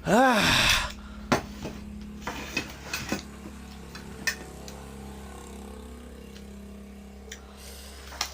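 A short, loud vocal exclamation whose pitch rises then falls, then a few scattered light clicks and clinks, the sort that cutlery makes against dishes, over a steady low electrical hum.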